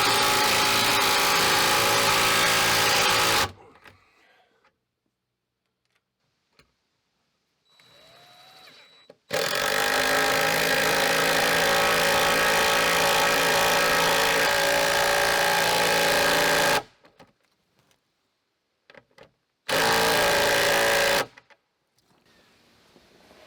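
Impact driver running, driving lag bolts into a wooden workbench, in three runs: a few seconds at the start, a long run of about seven seconds in the middle, and a short burst near the end, with near silence between.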